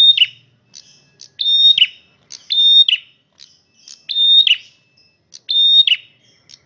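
A male prenjak merah (Indonesian songbird) sings loudly. Its short phrase, a held high note that then drops sharply, repeats about five times, roughly every second and a half.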